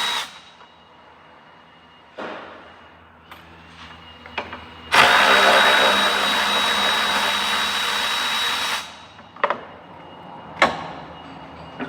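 Power drill running in a steady, high-whining burst of about four seconds, after a brief short burst, followed by a few sharp metallic knocks near the end.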